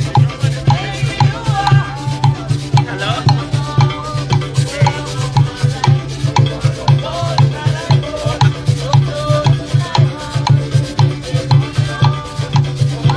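Music from a live folk group: drums and shakers keep a quick, steady beat with a melody line moving over it.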